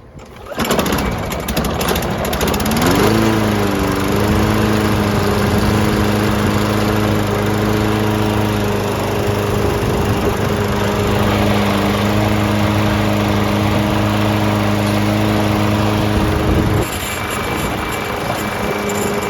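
Lawn-Boy 20-inch self-propelled lawn mower engine starting after a carburettor cleaning and new air filter: it catches about two seconds in, rises in pitch and settles into steady running. Near the end the engine note changes and the level drops slightly, but it keeps running.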